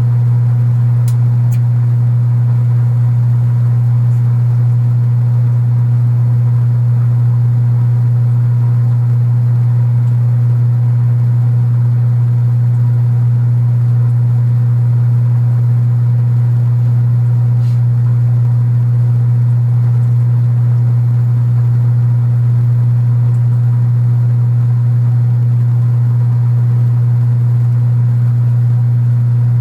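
Kenmore belt-drive portable washing machine running mid-cycle: a loud, unchanging low hum with fainter steady tones above it, the old cabinet buzzing.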